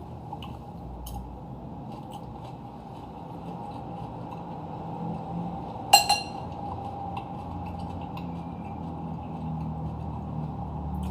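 Quiet eating at a table: faint small ticks of cutlery and dishes, with one sharp ringing clink of a utensil against a dish about halfway through.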